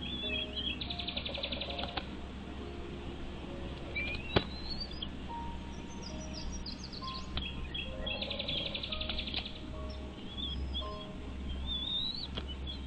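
Birds chirping, with a rapid buzzy trill about a second in and another about eight seconds in, over soft background music. One sharp click about four seconds in.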